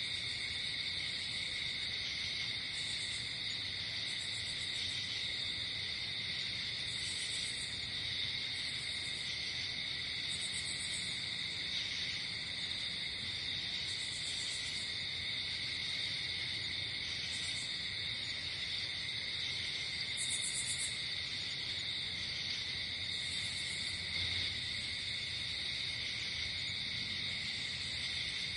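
Night insect chorus of crickets: a steady, unbroken chirring, with short higher pulsed chirps recurring every two seconds or so.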